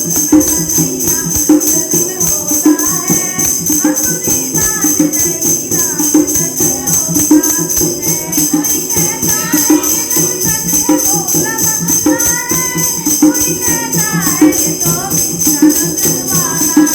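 Women singing a Krishna bhajan, the melody rising and falling in sung phrases, over jingling hand percussion that keeps a steady, even beat.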